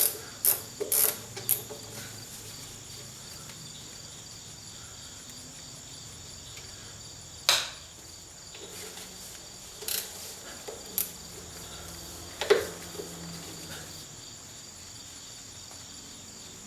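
Hand socket ratchet clicking a few times at the start while undoing small nuts, then scattered single metal clicks and knocks as the tool is worked and refitted. A faint steady high-pitched whine sits underneath.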